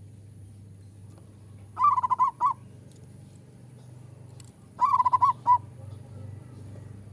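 Zebra dove (perkutut) singing two cooing phrases about three seconds apart, each a quick run of notes ending in a separate final coo.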